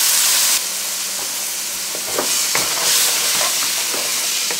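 Chickpeas and curry base sizzling in hot oil in a metal pot, loudest in the first half second as they go in. From about two seconds in, a wooden spoon stirs them, scraping and knocking against the pot.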